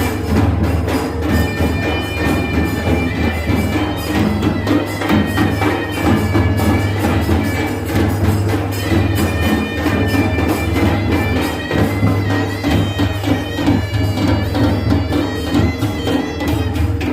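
Loud traditional festival music: a reedy wind instrument plays a wavering melody over a steady drone, with drums beating a fast rhythm under it.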